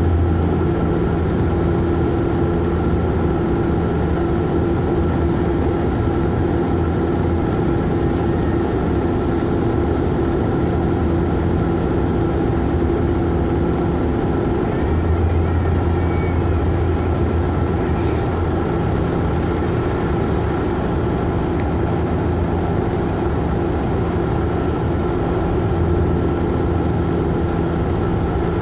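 Bombardier Q400 turboprop's engines and propellers droning steadily, heard from inside the cabin. Under the drone is a low propeller hum that swells and fades a few times.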